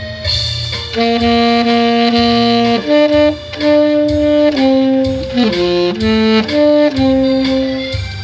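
Tenor saxophone playing a slow melody of long held notes that step from pitch to pitch, over a quieter backing accompaniment.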